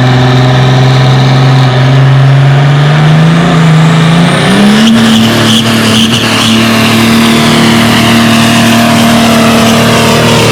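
Pulling vehicle's engine at full throttle, dragging the weight sled down the track. Its steady drone climbs in pitch about three seconds in, jumps up sharply around four and a half seconds, and then holds at the higher pitch.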